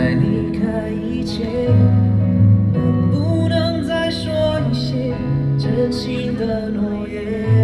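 Live band music over a concert sound system: a slow pop ballad with guitar and a bass line stepping from note to note every second or so.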